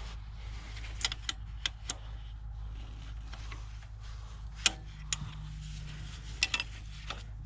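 Metal wrench clinking and tapping against a fuel rail fitting, a handful of sharp clicks spaced irregularly, over a steady low hum.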